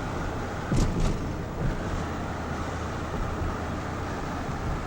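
Steady engine and tyre noise of a car driving slowly, heard from inside the cabin.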